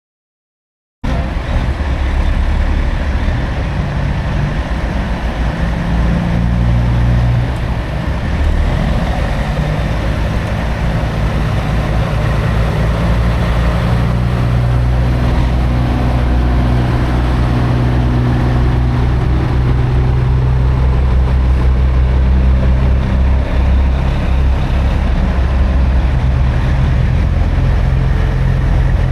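Semi truck's diesel engine running under way with road noise, a steady low drone that cuts in abruptly about a second in.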